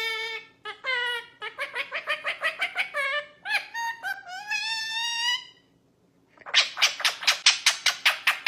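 A bird calling: a quick run of short, repeated pitched chirps with some rising and falling glides, then a brief pause and a fast series of harsh squawks, about five a second, that cuts off abruptly.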